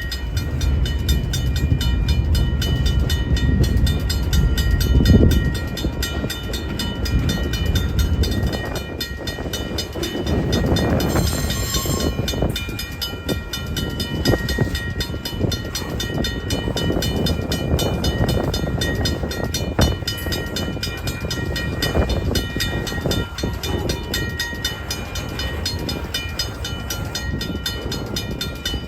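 A train passing on the tracks, with a continuous heavy rumble that is loudest in the first few seconds. There is a short burst of noise about eleven seconds in.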